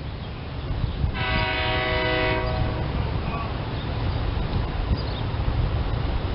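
SEPTA Silverliner electric commuter train sounding its horn in one blast of about a second and a half, over a steady low rumble.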